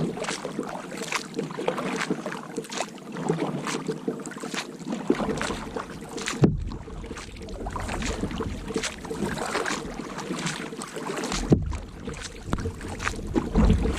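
Kayak paddle strokes in lake water: a steady run of splashes and drips, with a couple of sharper knocks. Wind buffets the microphone now and then.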